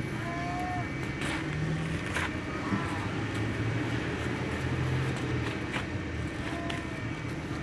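A steady low motor-like hum, with a few short chirping calls and brief clicks over it.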